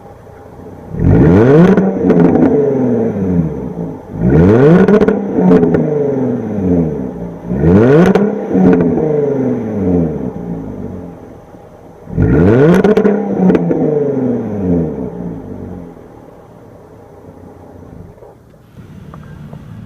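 2014 Jaguar F-Type S's 3.0-litre supercharged V6 revved four times, each rev climbing quickly and falling back more slowly, then settling to idle.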